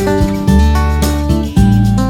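Background music: strummed acoustic guitar over a steady bass line, changing chords about every half second.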